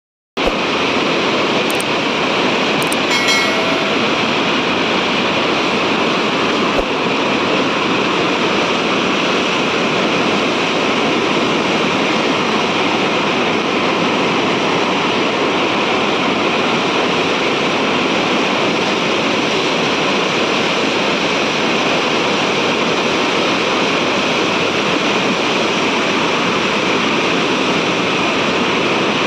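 Floodwater rushing in a steady, loud, unbroken roar.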